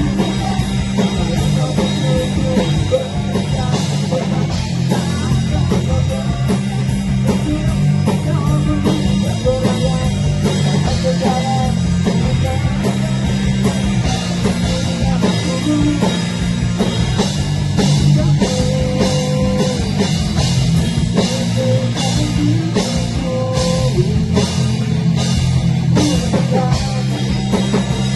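A rock band playing an instrumental passage: electric guitars over a steady drum-kit beat.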